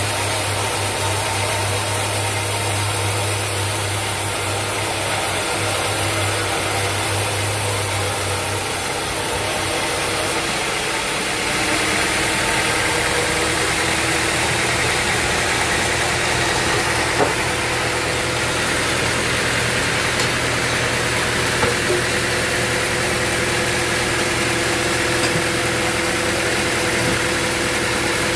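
Sawmill machinery running steadily with an engine-like hum; about eleven seconds in the low hum drops out and a higher steady tone takes over, with a few light knocks after that.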